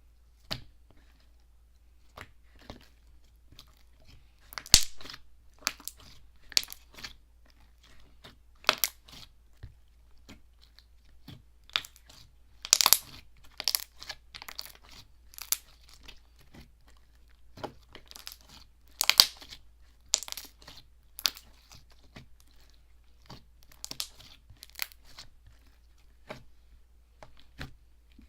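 Slime being squeezed and stretched by hand, giving irregular short crackles and clicks, a few of them louder pops.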